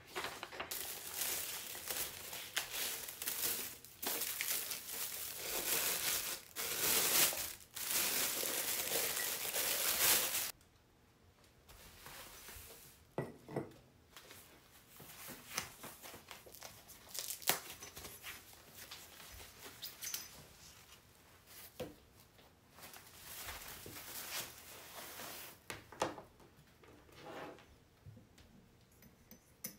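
Packaging being torn and crumpled during the unboxing of a table lamp: loud rustling and tearing for about the first ten seconds, then quieter handling with scattered clicks and taps.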